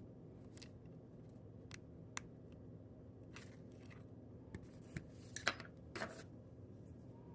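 Small plastic clicks and scrapes of a Dodge key fob's case and coin-cell battery being handled, with a cluster of sharper clicks about five to six seconds in, over a low steady hum.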